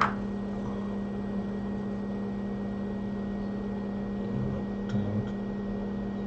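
Steady electric fan hum from electronics-repair bench equipment, with a short click at the start and a few soft handling knocks about four to five seconds in.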